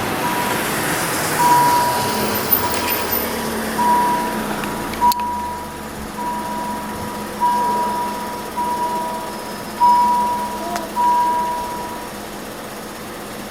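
Electronic warning beeper sounding a single steady high tone about once every 1.2 seconds, stopping about 12 seconds in, over a low steady hum. A sharp click comes about 5 seconds in.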